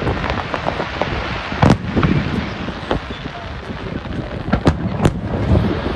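Fireworks display: a constant crackling of many small bursts with sharp, louder bangs standing out, the loudest about one and a half seconds in and two close together near the end.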